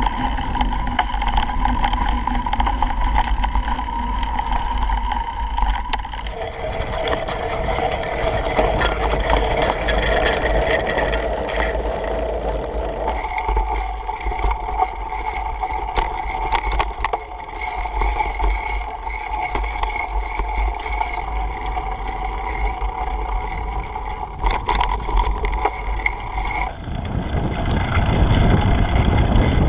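Wind rumbling on the microphone of a camera riding along on a bicycle, with steady tones underneath that jump to a new pitch a few times.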